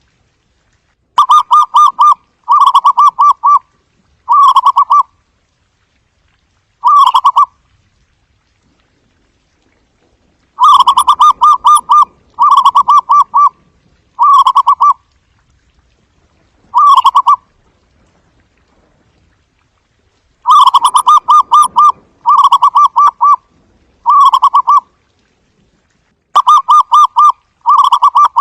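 Zebra dove giving its staccato cooing song: short, rapid trilled phrases of about a second each, delivered in bouts of one to four with pauses of a few seconds between.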